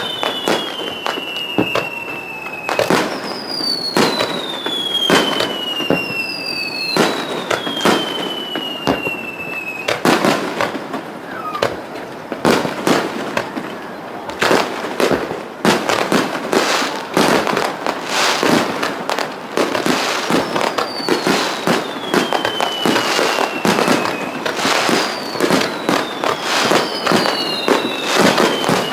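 Fireworks display: aerial shells bursting one after another, with several long whistles falling in pitch during the first ten seconds and again near the end. From about ten seconds in, the bangs come thick and fast in a crackling barrage.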